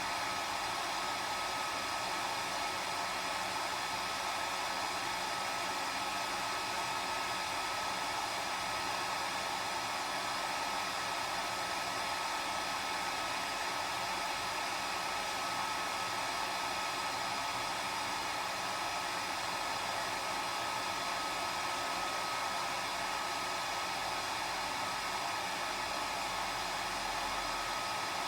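Hair dryer running steadily: an even blowing noise with a thin, constant whine over it.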